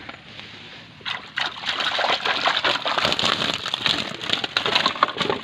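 Water splashing and sloshing, a dense rush with many small crackles that starts about a second in.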